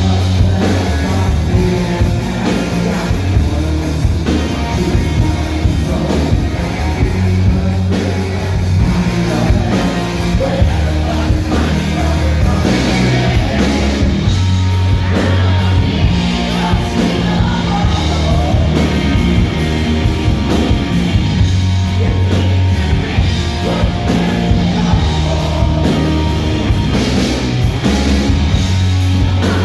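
Live rock band playing a loud, steady rock song: electric guitars, bass and drum kit.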